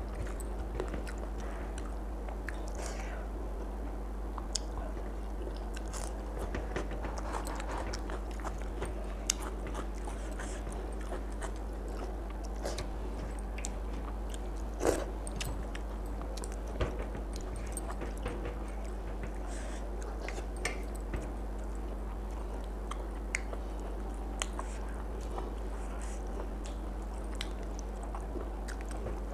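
A person eating by hand: chewing with scattered sharp clicks and crunches, the loudest about fifteen seconds in, over a steady low hum.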